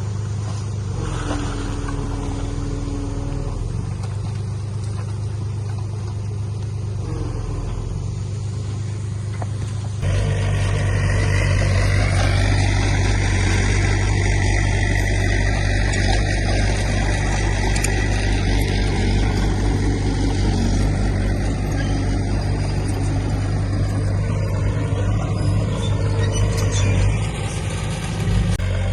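Heavy diesel earthmoving machinery running steadily, a low engine drone. About ten seconds in, the sound jumps abruptly louder and fuller, then holds steady.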